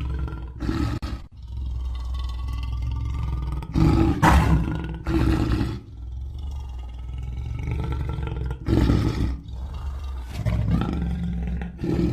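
Big-cat growling and roaring sound effect for a Smilodon (saber-toothed cat): a continuous low, rumbling growl broken by several louder roars, the loudest about four seconds in.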